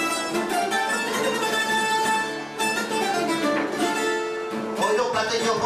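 A plucked-string trio of bandurria, laúd and guitar playing the tune of a Cádiz carnival tango.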